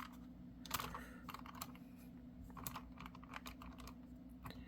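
Faint, scattered light clicks and taps from a model railroad car being handled on a coupler height gauge, over a faint steady low hum.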